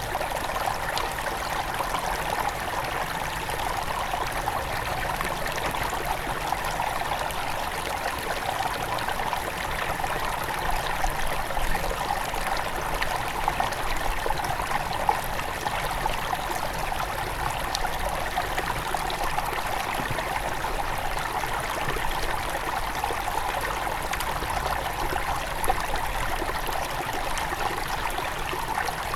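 Shallow headwater river flowing steadily over stones, a continuous rushing trickle with small splashes scattered through it.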